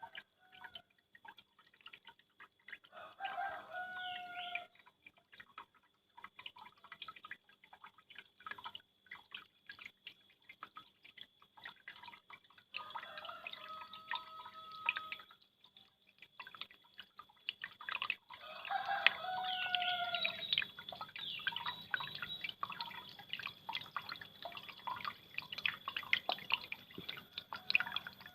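Water from a small homemade waterfall dripping and splashing in irregular drops, while a rooster crows three times.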